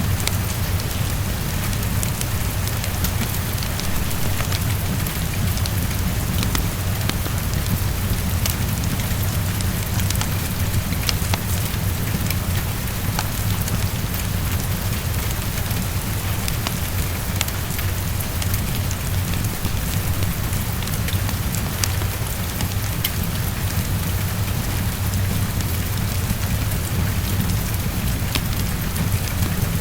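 Heavy rain falling steadily against a window, mixed with a fireplace crackling: an even hiss over a low, constant rumble, dotted with scattered small sharp ticks.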